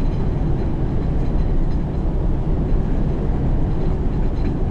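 Steady low rumble of a semi-truck's engine and road noise heard inside the cab while driving.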